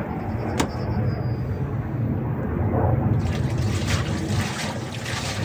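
Miele washing machine running with water and frozen chips in the drum: a steady low motor hum with water churning, and a sharp click about half a second in.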